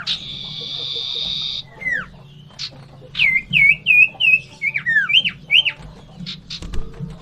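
Common iora (cipoh) calling aggressively, its fighting calls: a harsh buzzy churr for about a second and a half, then sharp down-slurred whistles and a quick run of short, falling whistled notes.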